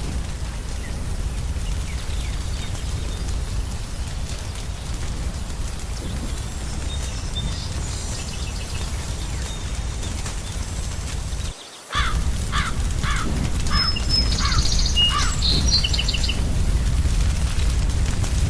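Forest-and-fireplace ambience: a steady low rumble, which cuts out for a moment about two-thirds of the way through. Birds then call, including a run of about six evenly spaced crow caws and some higher chirps.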